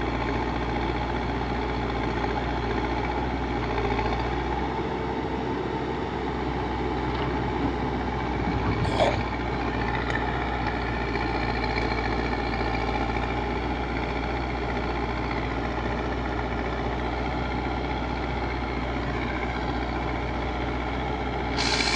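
Backhoe loader's diesel engine running steadily, with one short sharp sound about nine seconds in.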